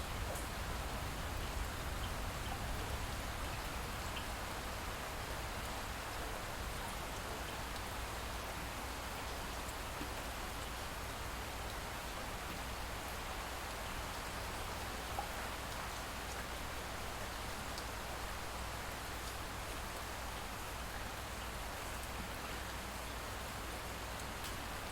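Light rain falling steadily, with scattered faint drop ticks and a steady low rumble underneath.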